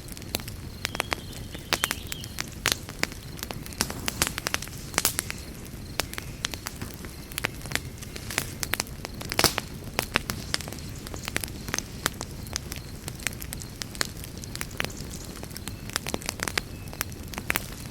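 Campfire burning with a steady low rumble and irregular sharp crackles and pops of burning wood, a few louder pops among them, the loudest about nine and a half seconds in.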